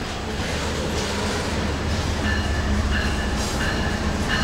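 Double-stack intermodal freight cars rolling past close by, a steady rumble of steel wheels on rail. From about halfway in, short high-pitched wheel squeals repeat every half-second or so.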